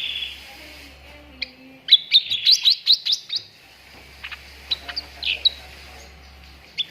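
Cucak ranting songbird chirping: a quick run of sharp, rising high notes about two seconds in, then scattered single chirps.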